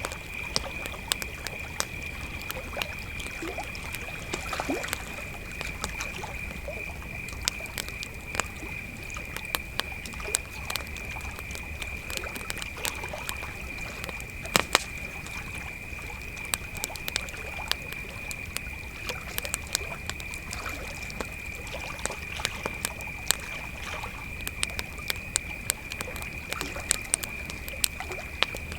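Crickets trilling in one steady high-pitched chorus, over a campfire crackling with irregular sharp pops; the loudest pop comes about halfway through.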